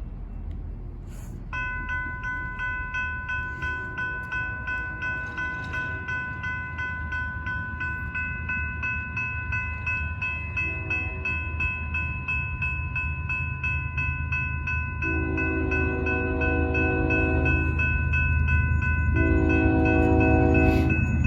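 A railroad crossing bell starts ringing about a second and a half in, with an even, rapid beat, as an approaching BNSF freight train's locomotive horn sounds several times, a short blast and then two long, loud blasts near the end. The train's low rumble grows steadily louder as it nears.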